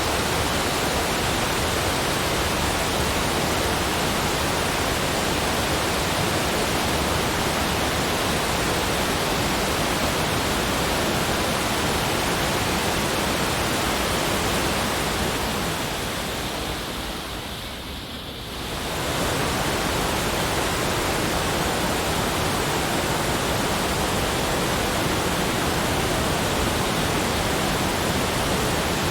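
Steady, even rushing noise with no distinct events, like pink noise or a distant waterfall. Its level dips smoothly for a few seconds about two-thirds of the way through, then comes back.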